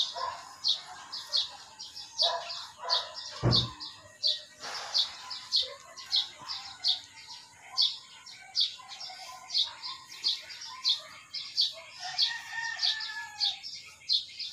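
A small bird chirping over and over, short high chirps about two a second. A single low thump comes about three and a half seconds in.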